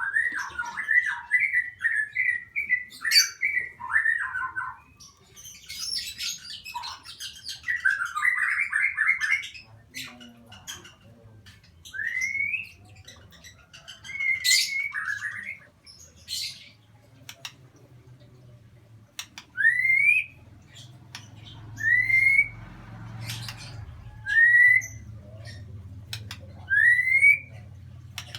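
Lovebird chattering and trilling, then giving short rising calls, one every two or three seconds.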